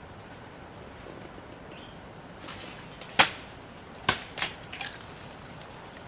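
A few sharp knocks: one loud one about three seconds in, then three lighter ones over the next second and a half.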